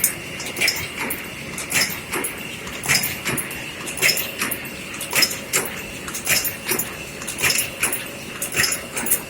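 Coffee cup making machine running: sharp mechanical knocks about once a second, lighter clicks between them, and a steady high whine under them.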